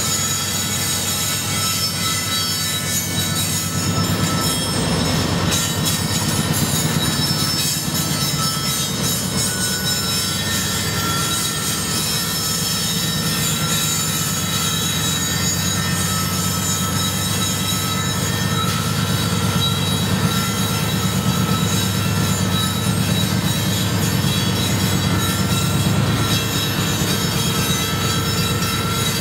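Slow-moving loaded coal train: diesel locomotives running under load with a steady low drone, and steel wheels squealing steadily on the rail as the hopper cars crawl past. The train is barely making a 1.4% grade, too heavy for its horsepower.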